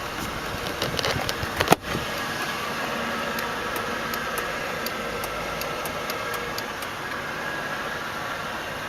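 A single sharp knock just under two seconds in, then the 4.6-litre V8 of a 2000 Lincoln Town Car limousine idling steadily, with faint light ticks over the hum.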